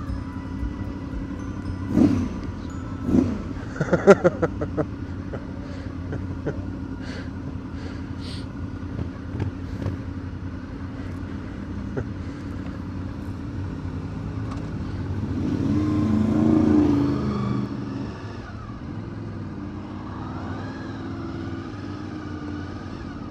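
Motorcycle engine running at low road speed, heard from the rider's bike with a steady hum and wind noise. A few sharp knocks come two to five seconds in, and a louder engine sound swells about two-thirds of the way through, then drops away.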